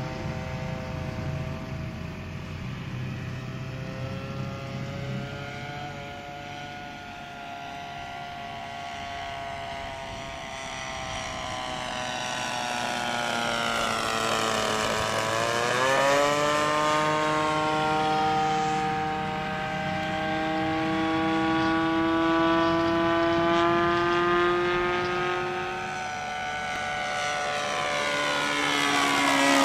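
Engine and propeller of a Seagull Tucano r/c model airplane, a steady high whine in flight. It swells as the plane comes closer, and its pitch sweeps down and back up about halfway through and again near the end as the plane passes by and turns.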